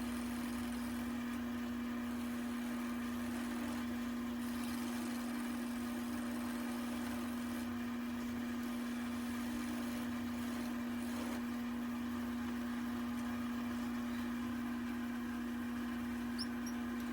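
Wood lathe running with a steady, even hum, with a faint hiss that swells a little in places.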